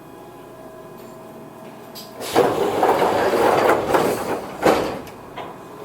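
Passenger doors of a Toyohashi Railway 1800-series car (ex-Tokyu stock) operating at a station stop: a loud air hiss and sliding rush lasting about two seconds, followed by a short sharp thump as the doors come to rest.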